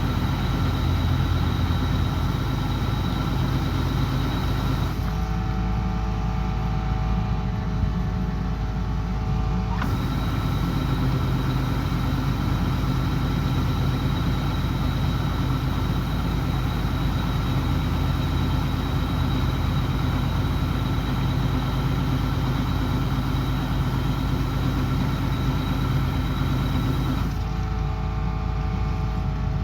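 Kubota combine harvester running steadily under load: the diesel engine and the threshing machinery. The sound changes abruptly about five seconds in, returns about five seconds later, and changes again near the end.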